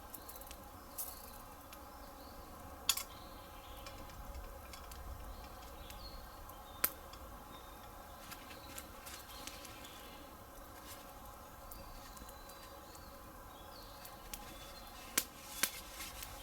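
Wood campfire burning quietly, with a few sharp crackling pops: single ones about three and seven seconds in, and two close together near the end.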